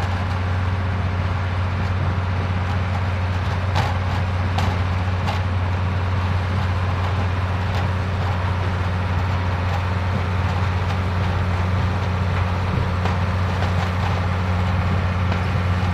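Vintage tractor engine running steadily with a deep, even hum, a few light ticks about four to five seconds in.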